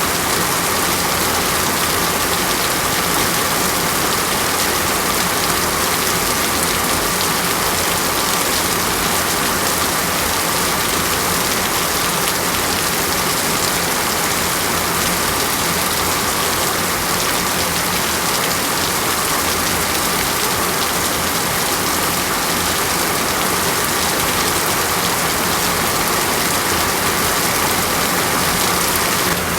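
Steady rain falling on a surface, an even continuous hiss without breaks.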